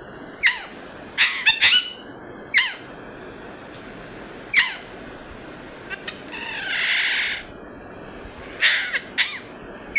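Pet green parrot giving a series of short, sharp squawks that fall in pitch, some in quick bunches, with a harsher hissing sound lasting about a second a little past the middle.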